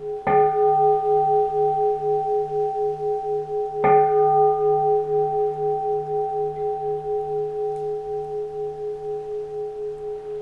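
Keisu, a Zen temple bowl bell, struck twice about three and a half seconds apart. Each strike rings on in a long, slowly pulsing hum that gradually fades.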